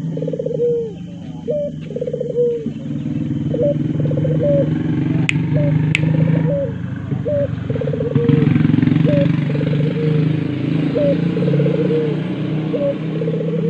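Puter (collared dove) cooing again and again: a short rising note, then a rolling, trilled coo, repeated about every second and a half. Under it is a steady low rumble, and there are two sharp clicks about five and six seconds in.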